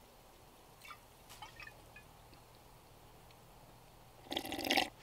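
Faint trickle and small splashes of liquor poured from a glass bottle into an enamel mug, then a short, louder rustle near the end.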